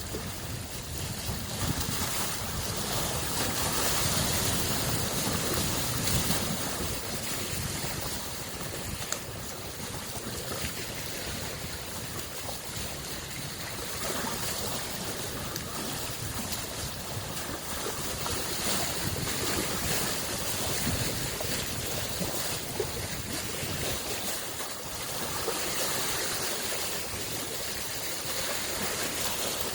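Small waves on a freshwater lake washing onto the shore: a continuous wash that swells and eases every several seconds.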